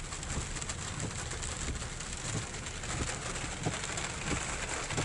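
Steady rain and road noise inside a pickup truck's cab creeping along in traffic, with a low rumble and a few faint ticks.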